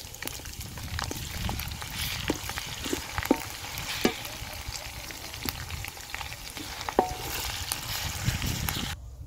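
Onions with ginger and garlic paste sizzling in hot oil in a large aluminium pot, stirred with a wooden spatula that scrapes and taps against the pot. The sizzle cuts off suddenly near the end.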